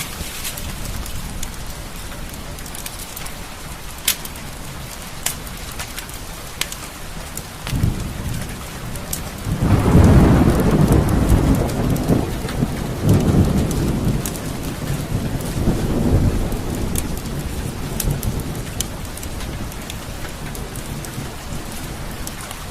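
Steady rain falling, with the sharp pops of a crackling fireplace scattered through it. A few seconds in, a roll of thunder builds, swells loudest soon after, and rumbles on in a few waves before fading.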